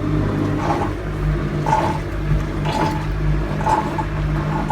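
Hisense twin tub washing machine draining its wash water after a finished wash cycle: a steady low hum and rumble with water rushing through, and a short gurgle about once a second.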